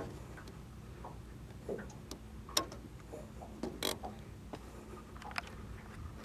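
Scattered light clicks and taps at irregular intervals over a faint low hum, the two loudest about two and a half and four seconds in.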